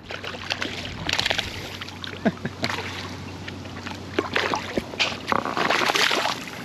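Splashing water and scattered clicks and rustles as a small hooked peacock bass is reeled in on ultralight tackle and landed.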